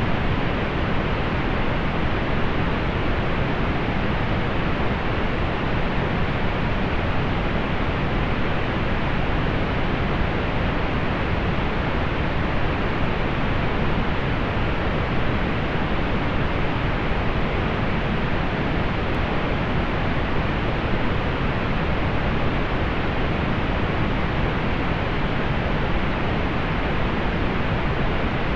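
Steady pink noise: an even, unchanging hiss, heavier in the lows and softening toward the top, with roll-off above about 4 kHz.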